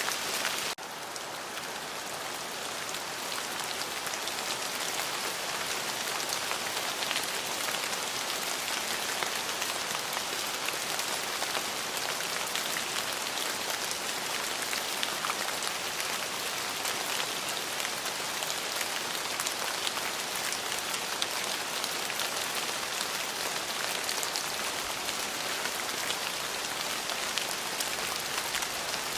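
Steady rain falling on a surface, an even patter of many drops with no thunder. The level dips suddenly about a second in and builds back over the next few seconds.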